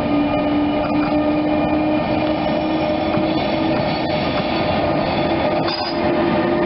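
Electric train running past, a loud steady rumble with a strong held tone that slowly rises in pitch, and faint irregular clicks from the wheels on the track.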